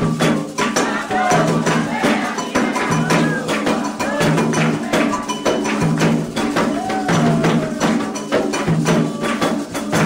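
Candomblé ritual music: atabaque hand drums and an agogô bell keep a steady percussive rhythm while voices sing.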